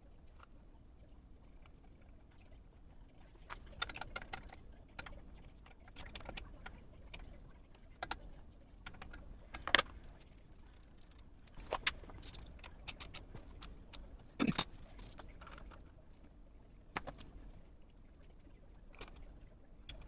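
Scattered sharp clinks and knocks of metal tools and parts being handled on a workbench, the loudest about halfway through, over a low steady hum.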